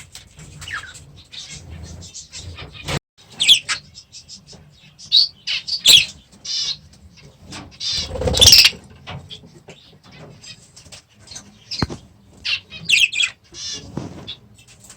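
Aviary parakeets chirping and calling in short, sharp bursts, with wing flapping and a loud rustle about eight seconds in.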